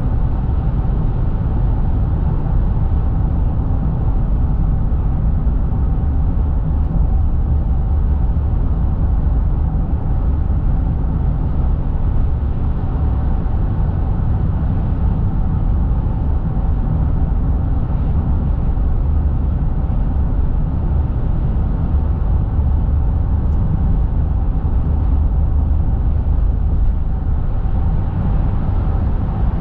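Steady low road rumble of a car being driven, with a faint steady hum above it.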